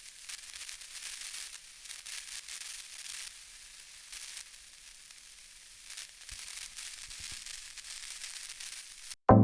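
Faint crackling hiss with many small crackles, cutting off sharply just before the end.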